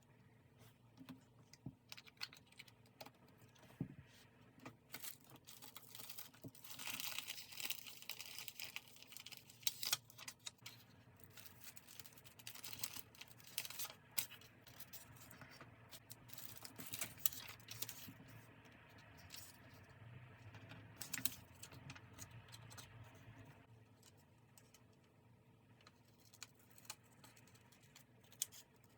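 Paper and stickers being handled up close while decorating a diary: scattered light taps and crinkles, with a longer tearing sound about seven seconds in that lasts a few seconds.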